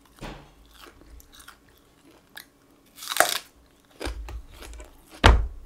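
Close-miked chewing of crispy breaded fried chicken, with one loud sharp crunch about three seconds in. A couple of dull knocks follow near the end.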